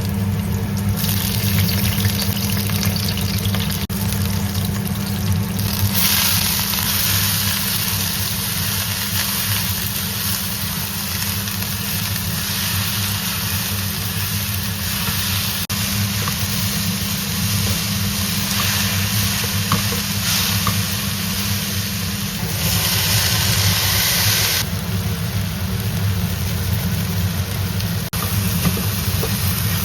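Food sizzling and frying in a pan, the sizzle swelling and easing in stretches, over a steady low mechanical hum.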